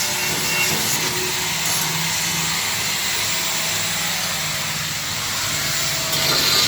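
A steel-bodied industrial washing machine running: a steady low hum under an even hiss.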